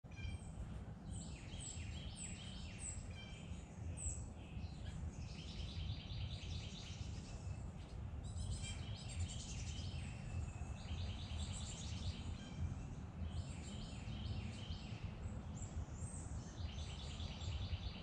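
Birds singing in repeated phrases of rapid trills and high, down-slurred chirps, over a steady low background rumble.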